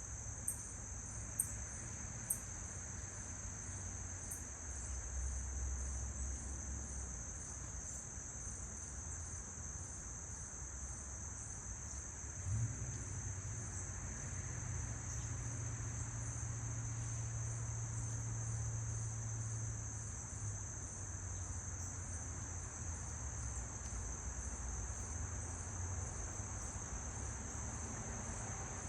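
Steady, high-pitched chorus of insects singing without a break, with a low rumble underneath that swells about halfway through.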